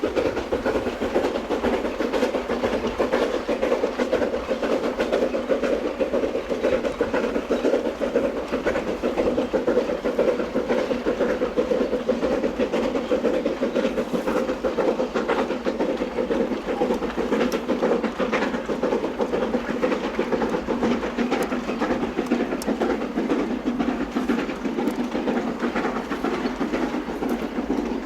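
A steam-hauled train on a narrow-gauge railway running steadily along the track, its wheels rumbling and clattering over the rails.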